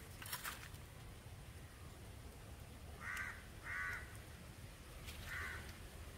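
A bird calling three times in short calls: two close together about three seconds in, and one more near the end.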